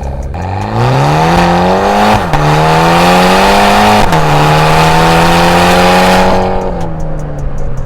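Mini Cooper JCW GP's 2.0-litre inline-four through a Veleno valvetronic cat-back exhaust, loud and high-pitched. The revs climb, drop sharply twice as it shifts up, hold steady, then fall back to idle near the end.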